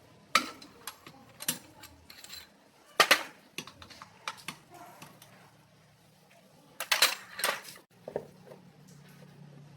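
Metal tools and parts clanking and knocking irregularly, with sharp strikes about 3 and 7 seconds in. A low steady hum starts near the end.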